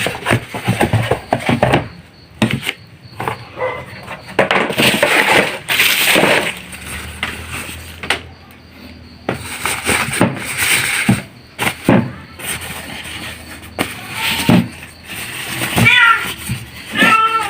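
Packaging being rustled and handled as a small stereo amplifier is unboxed, with a cat meowing a few times near the end.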